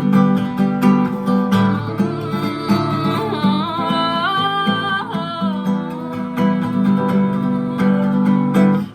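Acoustic guitar strumming chords in an instrumental stretch of a song. A wordless sung note rises and wavers about three to five seconds in.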